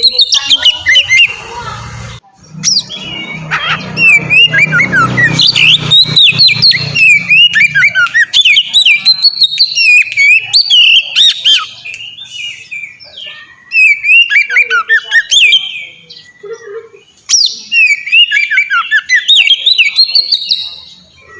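Oriental magpie-robin (kacer) singing a loud, varied song of rapid whistled phrases that sweep up and down, broken by short pauses about twelve and sixteen seconds in.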